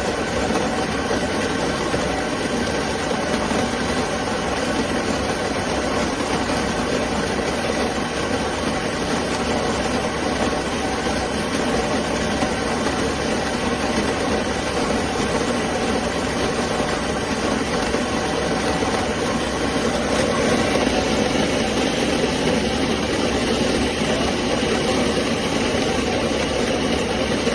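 AYCHIRO electric burr coffee grinder running continuously, set to a medium grind, as it grinds a 12-cup dose of coffee beans. It is a steady, loud motor-and-grinding noise that gets slightly brighter over the last several seconds.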